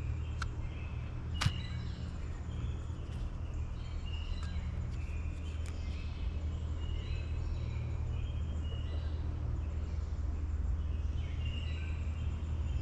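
Outdoor background: a steady low hum with small birds chirping on and off, and one sharp click about a second and a half in.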